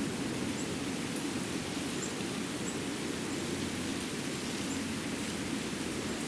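Winter forest ambience: a steady, even rushing noise, with a few faint, very high, short bird chirps scattered through it.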